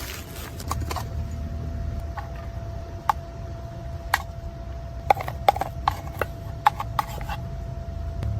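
A series of irregular sharp clicks and knocks, like hard objects being handled, over a low steady rumble.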